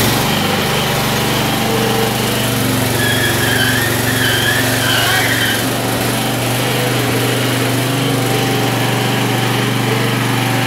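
Riding lawn mower's small engine running steadily at a constant speed, towing a car. A wavering high squeal sounds over it for a couple of seconds from about three seconds in.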